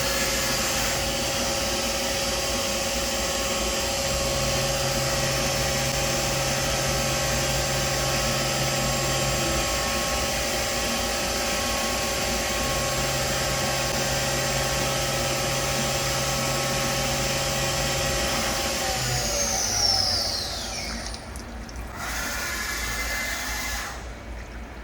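Milltronics RH33 CNC mill's spindle running at a steady speed with a whine of several tones, then winding down with falling pitch about 20 seconds in. A lower hum comes on twice for several seconds while it runs.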